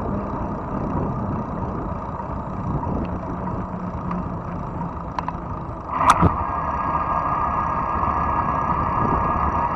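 Fat-tire electric bike on the move: steady rumbling tyre and wind noise, a sharp click about six seconds in, then a steadier, somewhat louder hum.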